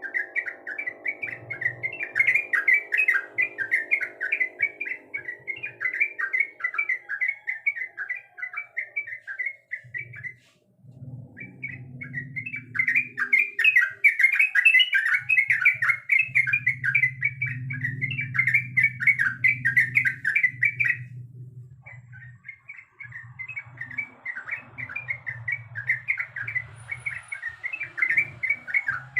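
Yellow-vented bulbul (trucukan) singing a fast, continuous chattering song in three long runs, with short breaks about ten and twenty-one seconds in.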